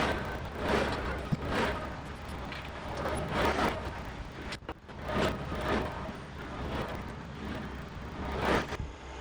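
John Deere 4052R compact tractor's diesel engine running steadily while working dirt with a Gannon box blade, with recurring rushing swells of noise every second or so.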